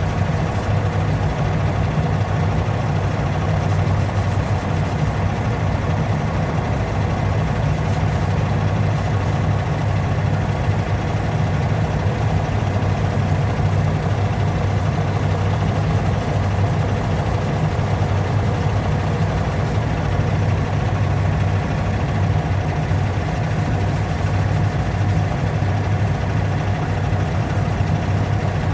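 A motor running with a steady, unbroken hum that holds one level throughout.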